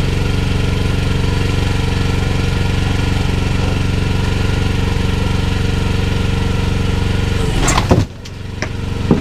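Small engine of a budget mini excavator running steadily while the machine works on broken concrete. Near the end comes a loud clatter, then the engine sound drops away and builds back up, with a couple of sharp knocks.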